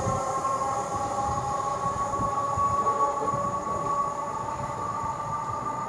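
A train running on the track, with several steady high whining tones over an uneven low rumble of the wheels.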